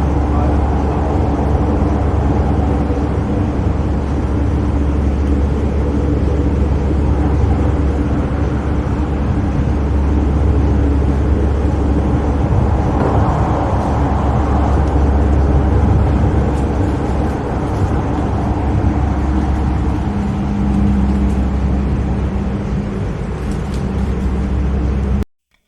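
Los Angeles Metro light-rail train running along the line, heard from inside the car: a steady low rumble with a faint hum from the motors. It cuts off suddenly just before the end.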